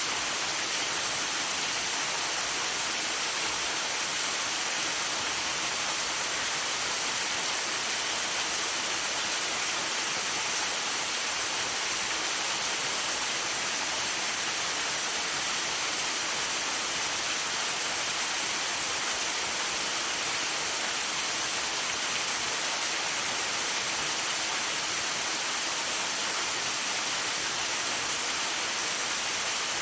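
Waterfall rushing in a steady, unchanging hiss, mixed with falling rain and sleet.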